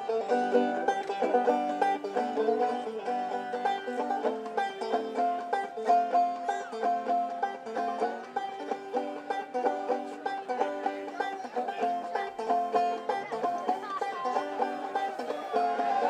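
Banjo-led bluegrass-style music with quick plucked notes.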